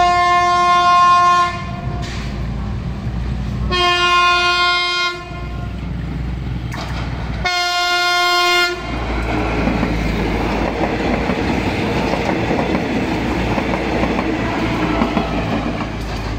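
A PNR train sounding its horn in three long blasts, then the rattle and rumble of the train running past over the rails.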